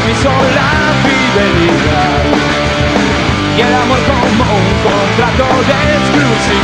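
Punk rock band playing live at full volume: distorted electric guitars, bass and drums, with a voice singing over them.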